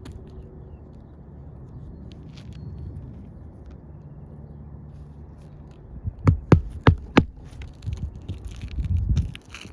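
Low rumbling handling noise, then four sharp knocks in quick succession about six seconds in, followed by a few duller thumps near the end.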